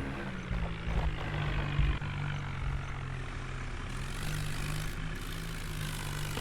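New Holland tractor's diesel engine running steadily, pulling a fully loaded trolley, with a couple of low thumps about one and two seconds in.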